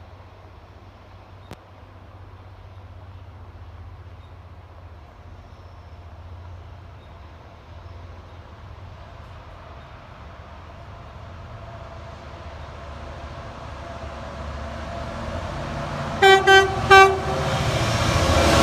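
An approaching train's rumble growing steadily louder, then three short toots of its horn near the end.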